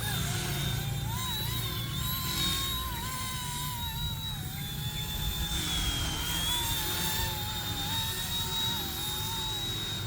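Small electric RC helicopter (RC ERA 186C Pro) with its motors and rotors whining steadily in flight, the pitch wavering slightly up and down as the throttle shifts.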